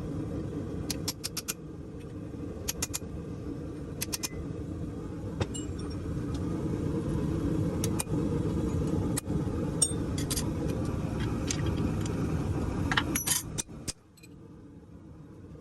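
Steady roar of a blacksmith's forge, with scattered light metallic clinks and taps of tools on metal. The roar drops away abruptly about fourteen seconds in.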